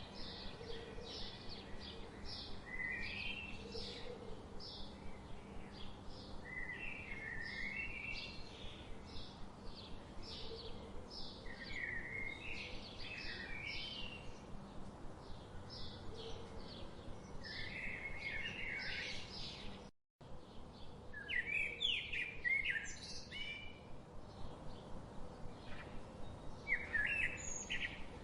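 Birds chirping: a steady stream of quick, high chirps and short trills over a faint constant background hiss. The sound cuts out completely for a split second about two-thirds of the way through, then the chirping resumes.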